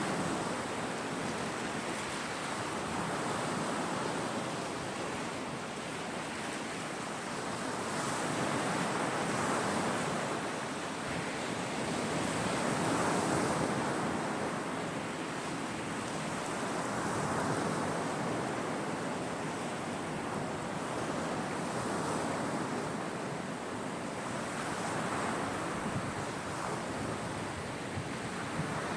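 Waves breaking on the Caspian Sea shore, the surf swelling and falling back about every four seconds.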